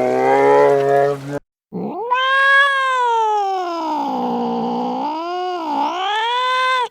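Animal calls: a short rising call, then after a brief break one long, drawn-out wailing call that sags in pitch, dips twice near the end and cuts off.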